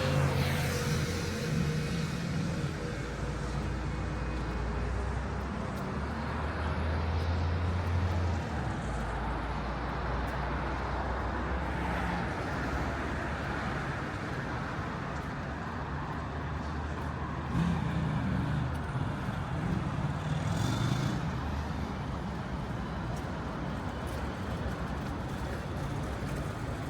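City street traffic: motor vehicles running past, a steady low engine rumble under a continuous wash of tyre and road noise.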